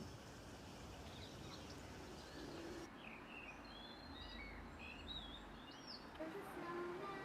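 Small birds chirping, a scatter of short high calls that glide in pitch over a faint outdoor background. Near the end a steady pitched sound begins.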